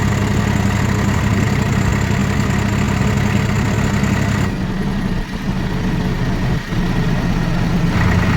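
Swaraj 4x4 tractor's diesel engine running steadily. Its tone shifts, with the higher part of the sound dropping away about halfway through, and comes back up near the end.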